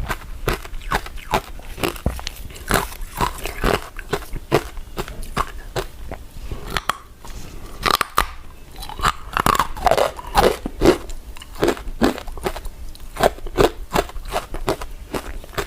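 Close-up eating sounds of a person chewing soft, chewy glutinous rice desserts (mochi and rice cakes): a dense run of quick mouth clicks and smacks, several a second.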